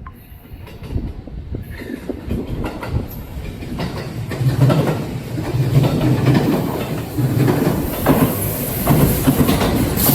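Kintetsu electric train running past, its wheels clicking over the rail joints, growing louder as it approaches and passes.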